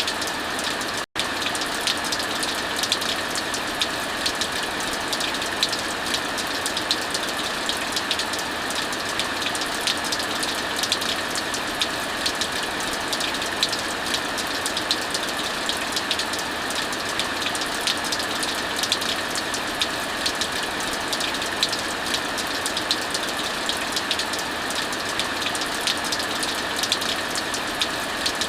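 Steady hiss of heavy rain with frequent small crackles and pops of a wood fire mixed in. The sound cuts out for an instant about a second in.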